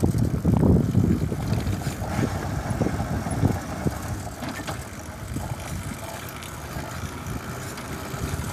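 Wind rumbling on the microphone of a camera carried on a moving bicycle, with the noise of the bike riding along, louder in the first couple of seconds and easing off.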